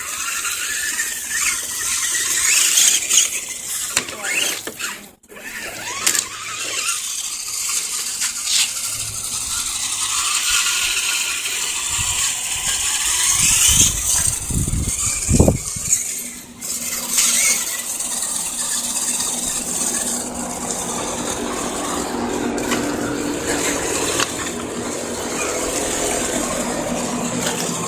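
Axial SCX10 RC scale crawler driving, its electric motor and gears whining and rising and falling in pitch with the throttle. A few thuds come about halfway through.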